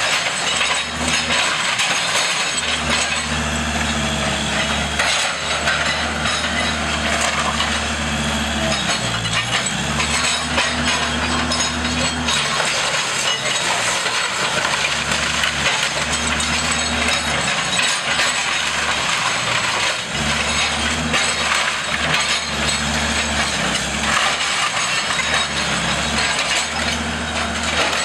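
A heavy demolition machine's engine working in repeated surges, its pitch dipping and rising, while the house's wood timbers crack and splinter under it.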